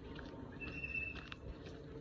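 A bird calling outdoors: one held, high whistled note lasting under a second, starting about half a second in, amid light clicking chirps.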